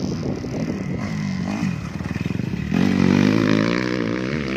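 Motocross dirt bike engines revving, several at once, their pitch rising and falling. A louder bike comes in about two-thirds of the way through.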